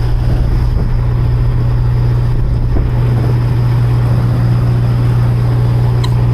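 Diesel semi-truck engine idling steadily with a low, even hum.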